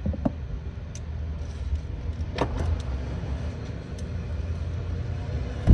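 Wind rumbling on the microphone, with a few light clicks and knocks of hand work on the engine's spark plug wires and heat shields.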